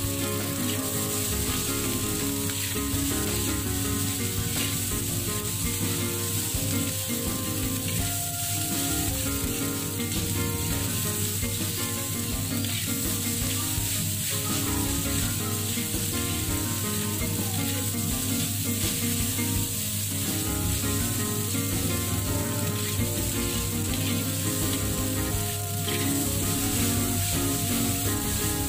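Fried rice sizzling steadily in an aluminium wok while a metal spatula stirs and scrapes it around the pan.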